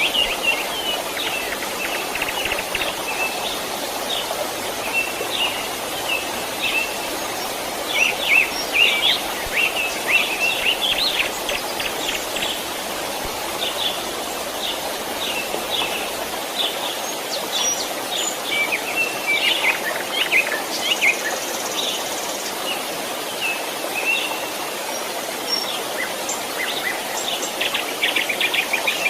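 Steady rushing of a small stream, with many small birds chirping and trilling over it, in quick flurries that come and go.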